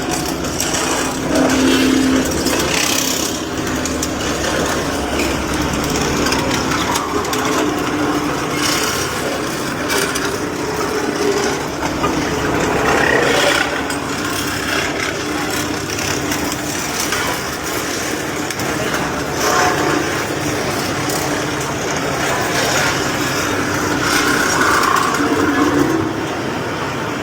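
An engine running steadily with a constant hum, amid dense mechanical noise.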